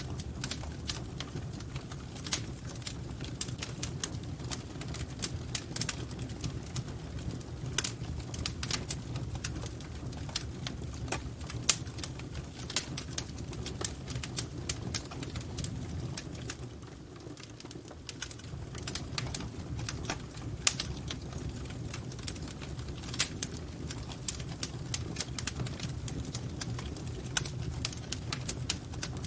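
Wood fire crackling and popping in a fireplace: irregular sharp snaps over a steady low rumble of the flames, with a few louder pops, one about twelve seconds in and another about twenty-one seconds in.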